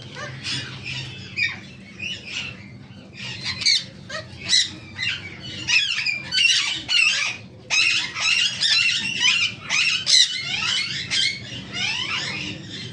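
Parrots chirping and squawking, many short calls overlapping in a dense, continuous chatter.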